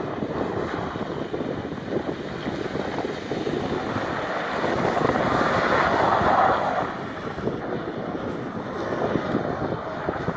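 Infiniti Q50S drifting on packed snow, its engine revving, with wind noise on the microphone. The car gets louder for a couple of seconds midway, then eases off.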